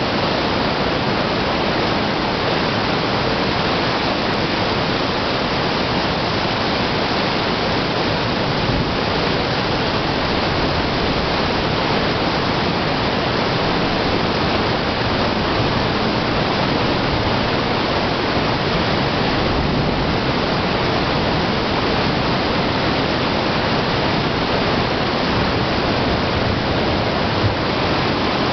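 Heavy rain falling in a steady, dense, unchanging downpour.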